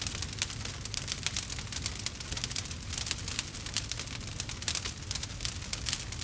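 Campfire burning: dense, irregular crackles and snaps over a steady low rumble.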